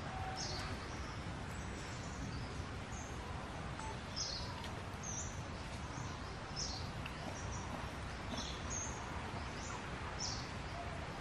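Steady outdoor background noise with short, high bird chirps every second or so.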